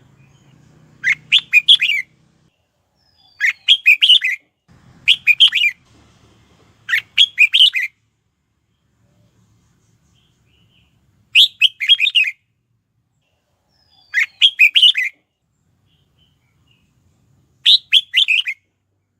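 Red-whiskered bulbul singing: seven short song phrases of about a second each, made of quick notes and spaced a few seconds apart.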